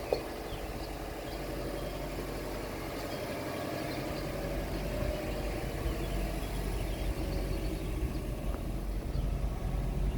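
The turbocharged 2.5-litre flat-four of a 2004 Subaru Forester XT idling steadily, with a single sharp click just as the sound begins.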